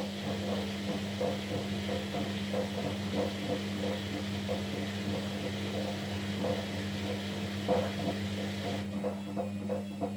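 Kunft washing machine running a wash cycle: a steady motor hum with a hiss and irregular soft knocks from the turning drum.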